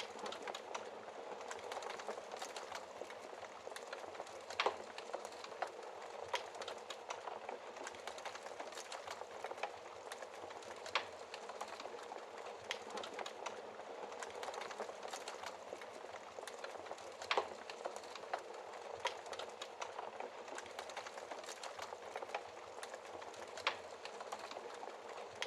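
Wood fire burning in a fireplace: a steady hiss with frequent sharp crackles and pops, several of them louder than the rest.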